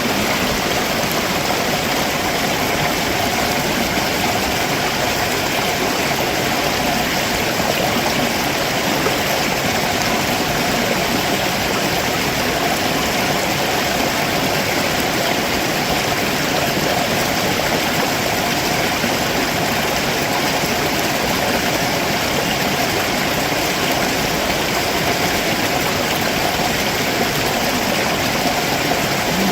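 Stream water running over rocks below a waterfall: a steady, unbroken rush.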